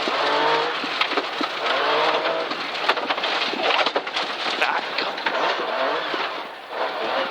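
Rally car's engine pulling hard out of a tight hairpin, its pitch rising again and again through the gears, while gravel and stones clatter constantly against the underbody.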